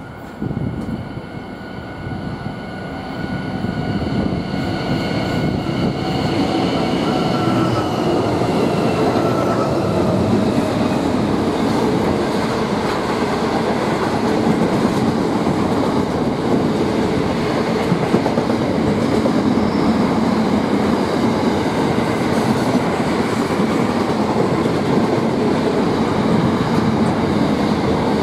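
A Pacific National container freight train passing close by. Its diesel locomotives' engine tones fall slightly in pitch over the first ten seconds or so as the sound grows louder, then the container wagons roll by with a steady, loud noise of wheels on rail.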